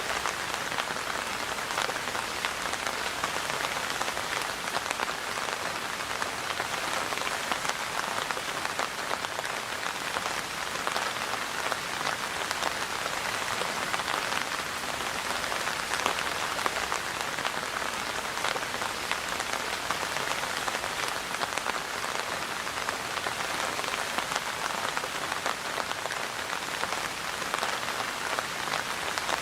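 Steady rain falling on a surface: an even hiss made up of many fine drop patters.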